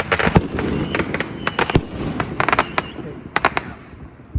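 Aerial fireworks going off in rapid clusters of sharp bangs and crackles, several quick groups in a row, dying away near the end.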